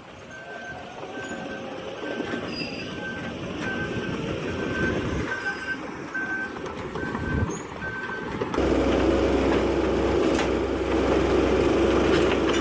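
Heavy equipment's reversing alarm beeping steadily, about twice a second, over rumbling machinery noise. Near the end it cuts abruptly to a louder, steady heavy diesel engine drone.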